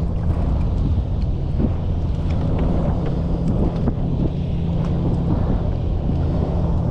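Strong wind buffeting the camera microphone, a dense rumble over a steady low hum, with scattered small splashes and ticks.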